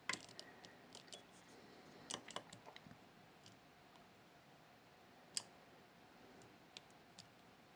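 Faint, scattered metallic clicks and light scrapes of a pick working the pins of a Miwa Kaba Star Orion dimple-lock cylinder, with one sharper click about five seconds in.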